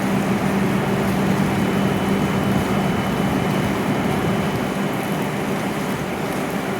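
W7 series shinkansen standing at the platform, with the steady hum and rush of its onboard equipment and air conditioning running; the pitch holds level, with no rising or falling.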